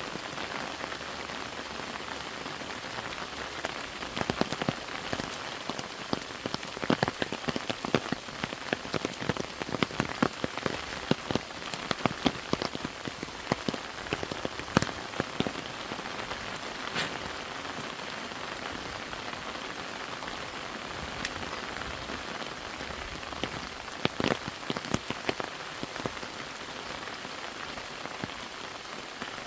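Steady rain, with many heavy drops tapping close by. The drops come thickest through the first half and again briefly near the end.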